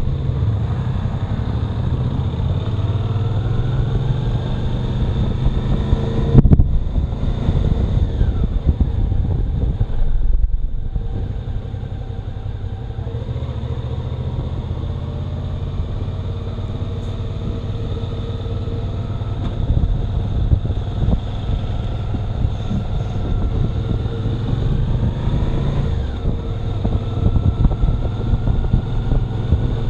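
Motorcycle engine running while the bike is ridden, its pitch rising as it accelerates, most clearly about a quarter of the way in and again near the end.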